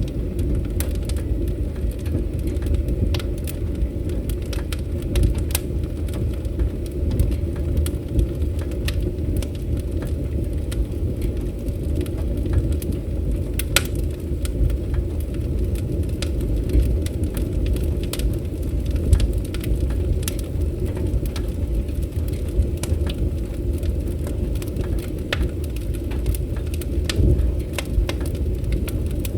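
Wood fire crackling, scattered sharp pops and snaps over a steady low rumble, with one louder pop about halfway through.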